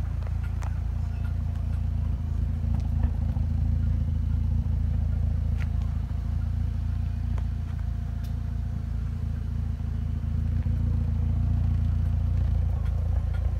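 Mitsubishi Lancer Evolution X's turbocharged four-cylinder engine idling steadily, a constant low rumble from the exhaust.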